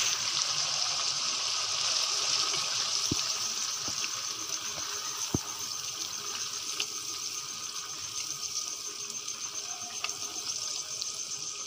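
Beef keema in ghee sizzling in a nonstick wok after yogurt is added, as it is stirred with a silicone spatula. The sizzle slowly fades, with two light knocks about three and five seconds in.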